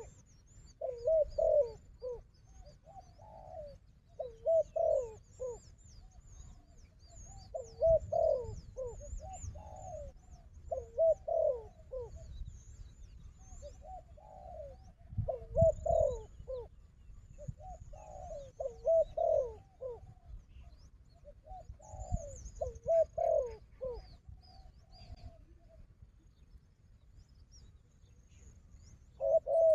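Spotted doves cooing in repeated rolling phrases every couple of seconds, falling silent about 25 seconds in, with thin high chirps of other birds above them.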